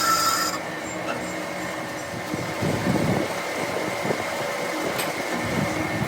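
A power tool's high whine cuts off about half a second in, followed by scraping and rubbing of hand work on metal parts and a single sharp click near the end.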